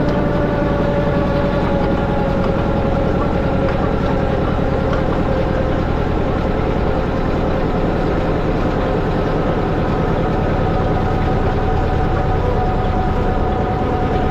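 Tractor engine running steadily as it drives a post hole digger, its pitch sagging slightly and then rising again near the end.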